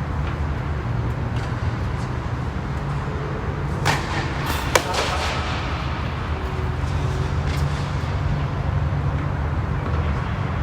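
Tennis ball struck twice by racquets about a second apart, a serve followed by the return, two sharp pops over a steady low background rumble.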